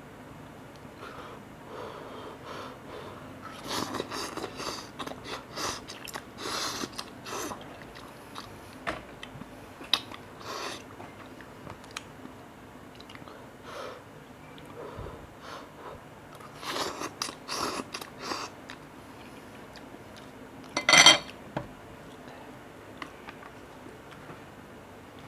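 Eating cup noodles close to the microphone: bursts of chewing and biting, with quieter gaps between them. Near the end comes one short, louder noise.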